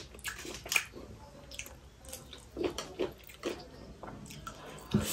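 Close-miked chewing and mouth sounds of a person eating baby octopus: irregular short smacks and clicks, busier around the middle and again near the end.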